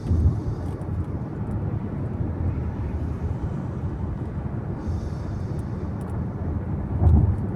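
Car interior road noise while driving: a steady low rumble of tyres and engine, with two short low thuds, one just after the start and one near the end.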